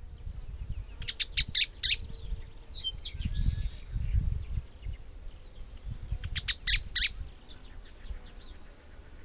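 A bird singing in two bursts of quick, sharp high notes, one about a second in and another near seven seconds, with scattered softer calls between, over a low rumble.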